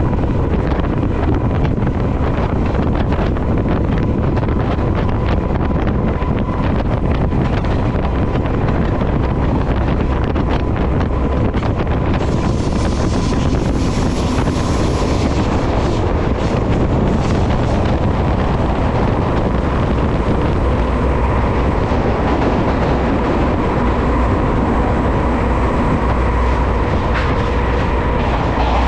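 A passenger train running along the track, heard from an open door: a steady rumble of wheels on rails under heavy wind buffeting on the microphone, with a thin steady whine. The hiss grows brighter for a few seconds around the middle.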